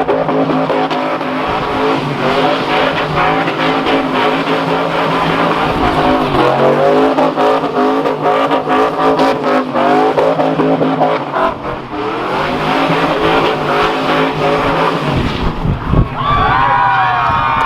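Car engine held at high revs during a burnout, tires spinning and squealing on the pavement. The revs sag briefly around twelve seconds in, and near the end the engine drops off with a sharp pop.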